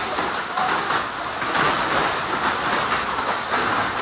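Heavy rain pouring down in a steady hiss onto a wet tiled patio, with splashing as bare feet move through the standing water.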